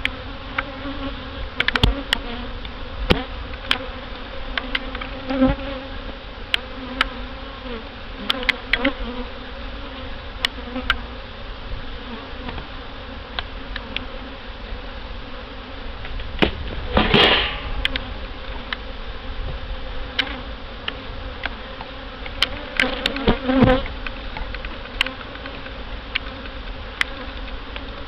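Honey bees buzzing around an open hive: a steady hum that swells and fades as bees fly close. Scattered sharp clicks and knocks sound throughout, and there is a brief loud rush of noise a little past the middle.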